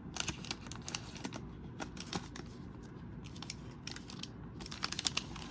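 Trading cards being handled and flipped through, making light, irregular clicks and taps of card stock.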